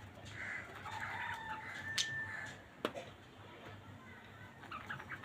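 Budgerigars chirping and warbling in short high calls, with two sharp clicks about two and three seconds in.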